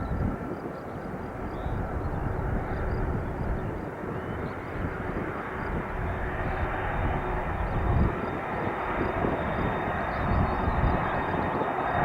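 Lockheed C-5M Super Galaxy's four turbofan engines running: a steady jet rumble and hiss with a faint whine, slowly growing louder.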